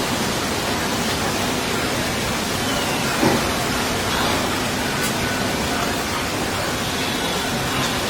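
A steady, even hiss fills the whole sound, with a few faint, thin, high bird calls over it, including a short falling whistle about three seconds in.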